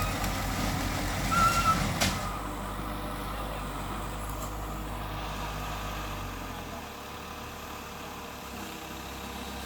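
Heavy diesel engine of earthmoving machinery running under load, its low pulsing note easing to a smoother, steadier one about two seconds in and dropping off near the seven-second mark. A short high-pitched tone sounds about a second and a half in, followed by a sharp click.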